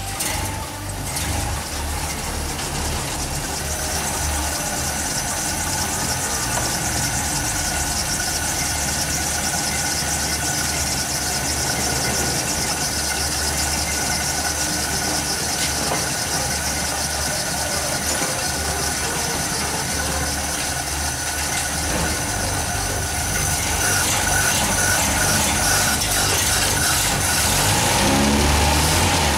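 An old carburetted car engine idling steadily just after a cold start, running on its freshly rebuilt carburettor while it warms up, before the idle mixture and speed are set. A thin, steady high-pitched whine sits over the running, and the sound gets a little louder in the last few seconds.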